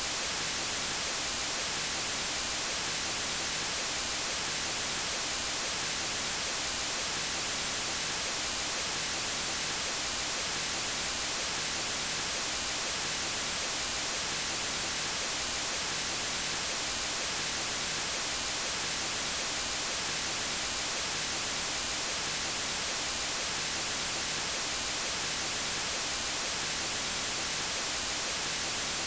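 Steady white noise: an even hiss with no changes, brightest in the high frequencies.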